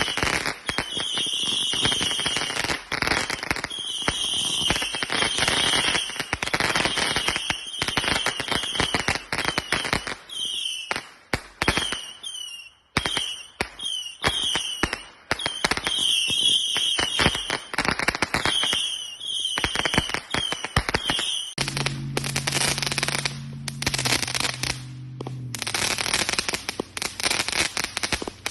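Consumer fireworks cakes firing: a dense, continuous run of bangs and crackling, with a few brief gaps. Repeated short high chirps run over the bangs until near the end.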